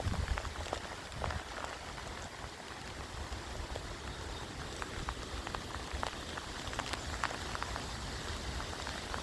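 Rain falling, with many separate drops ticking irregularly over a steady hiss and a low rumble underneath.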